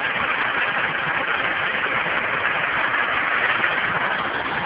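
Semi truck's diesel engine idling, a steady, even engine noise.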